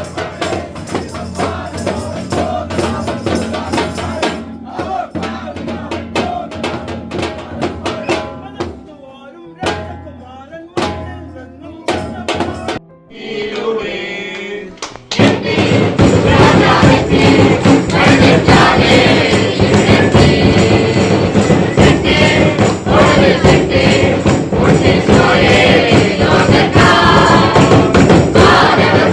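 A group singing Christmas carols to tambourine and drum. About halfway through, a louder, fuller passage of many voices singing together comes in suddenly.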